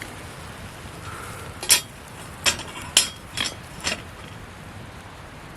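Metal cooking utensils clinking against a pan: about five sharp clinks, irregularly spaced, in the middle seconds.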